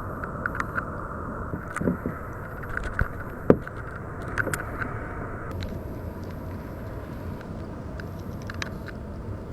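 Small clicks, drips and light knocks of a kayak and paddle on calm water, with one sharper knock about three and a half seconds in, over a steady low background noise.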